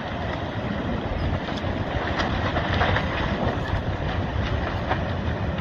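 Steady wind noise on the microphone with a low rumble underneath and faint scattered crackles.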